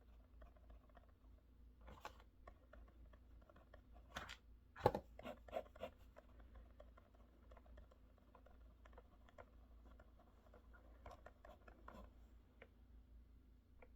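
Quiet desk-study sounds: faint scratching and light scattered clicks, like a pen on paper, with a short run of louder clicks and knocks about five seconds in.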